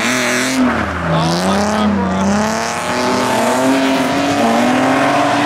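A car engine revving, its pitch dipping about a second in, then climbing and holding, with a short hissing burst at the start.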